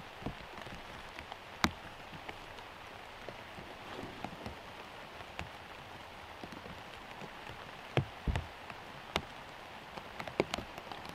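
Steady rain falling, with scattered heavier drops striking close by in sharp ticks and a duller thud about eight seconds in.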